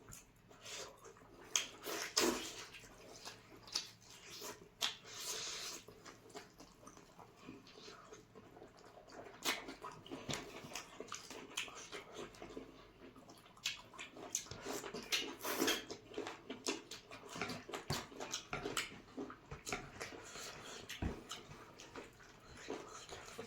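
Wet, irregular chewing, smacking and squelching of people eating chicken curry and rice, with many short clicks.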